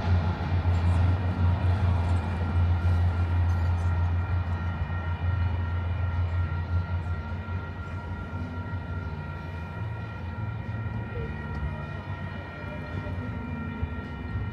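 MBTA commuter rail train passing: the diesel locomotive's low engine drone with steady high whining tones above it, gradually fading.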